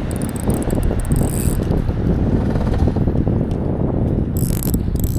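Spinning fishing reel being cranked, its gears ticking as line is retrieved, over a steady low rumble.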